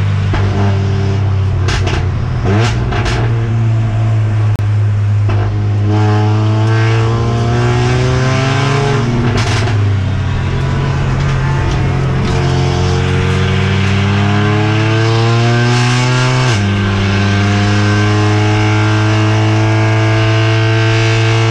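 Mercedes-AMG CLA45 race car's turbocharged four-cylinder engine heard from inside the car under hard acceleration. Its pitch climbs twice and drops sharply at an upshift about 16 seconds in, then holds steady over a constant low drone, with a few sharp knocks in the first few seconds.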